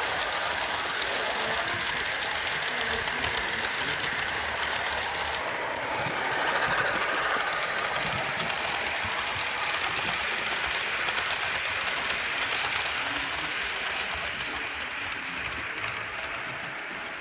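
Model train running along the layout track: a small electric motor whirring with rapid clicking of wheels over the rails, getting quieter toward the end.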